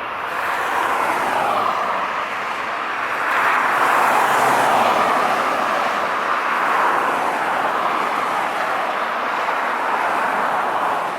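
Boeing 777's GE90 turbofan engines at high thrust, a loud, steady jet noise whose tone slowly shifts and swells, peaking a few seconds in.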